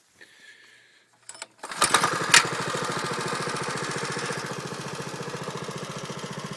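Baja MB200 mini bike's 196 cc single-cylinder four-stroke engine starting up. It catches about a second and a half in with a couple of sharp pops, then settles into a steady, even idle, purring like a kitten.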